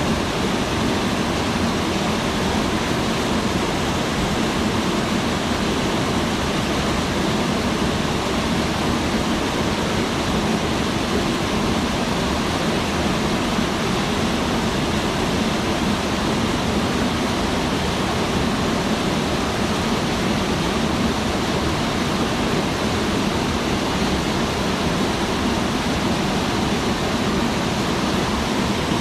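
Mountain stream water rushing, a loud, steady, even noise that does not change.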